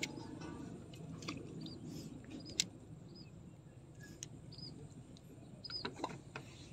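A small bird calling with short, repeated chirps, about one a second, over a low steady background, with a few sharp clicks, the loudest about two and a half seconds in.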